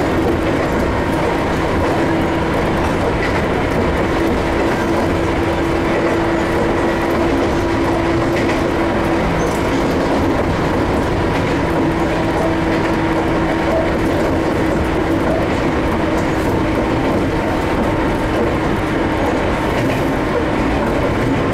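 Ohmi Railway 800 series electric train running steadily along the line, a continuous rumble of wheels on rails and running gear with a steady hum over it.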